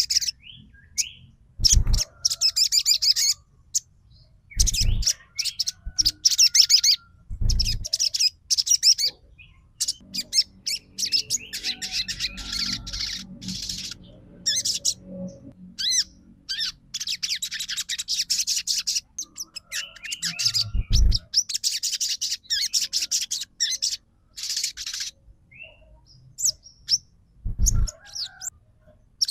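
Sogon songbird singing in repeated bursts of rapid high chirping and twittering, separated by short pauses. This is lure song meant to set off other sogons. A few short low thumps fall among the phrases.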